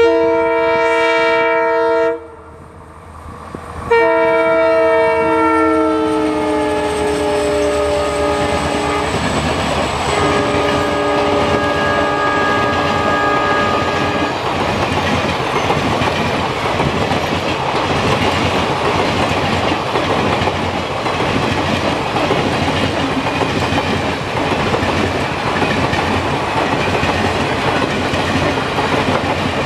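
WDP4D diesel locomotive sounding its multi-note horn three times as it runs through at speed: a two-second blast, a longer one whose pitch drops as the locomotive passes, and a third lower, steady blast. Then the steady clickety-clack rumble of the passenger coaches rolling past.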